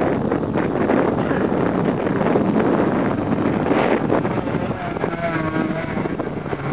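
Car engine running hard as the car is driven through an autocross course, with wind buffeting the microphone.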